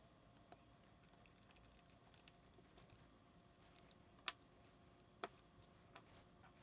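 Faint scattered clicks of a small Phillips screwdriver and tiny screws against the camera body as the screws are driven back in, with two sharper clicks about four and five seconds in, over a quiet room hum.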